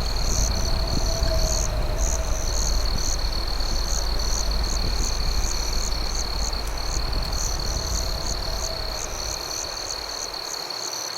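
Night crickets chirping: a steady high trill with rapid pulsed chirps above it, over a low steady rumble that fades near the end.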